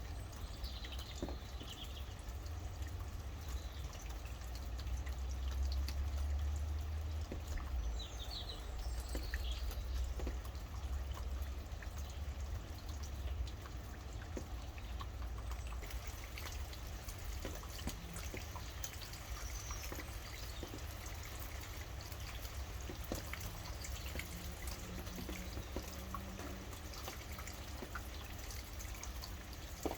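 Steady rain with many drops pattering and dripping, over a low rumble, and a few short bird chirps now and then.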